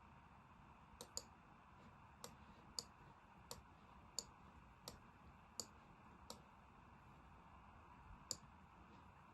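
A string of about ten light, sharp clicks at a computer, mostly evenly spaced about 0.7 s apart, with a last one after a short gap near the end, over near-silent room tone.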